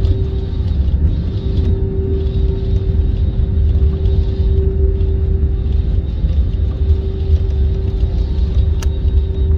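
Jet airliner running: a steady low rumble with a constant hum above it.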